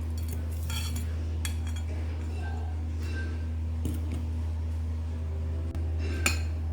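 Dishes and utensils clinking as they are handled and set down: a few separate clinks, the sharpest near the end, over a steady low hum.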